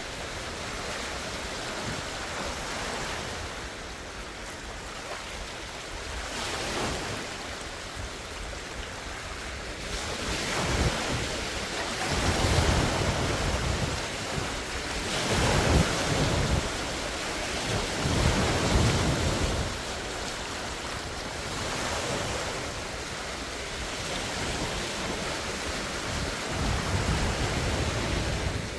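Large wind-driven lake waves breaking and splashing in a steady wash, with gusty wind buffeting the phone's microphone. The surf swells louder for a few seconds around the middle.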